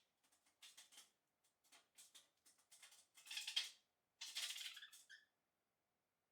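Budgerigars pecking and cracking seed: a faint string of small, crisp crackles and clicks, with two louder bursts a little past the middle.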